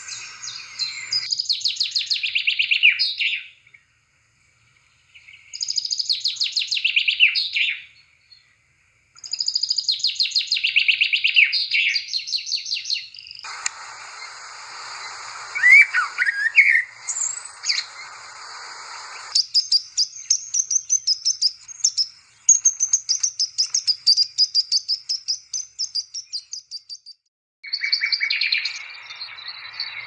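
Small birds chirping: rapid runs of high, repeated chirps in several pieces that cut in and out abruptly, with short silences between them.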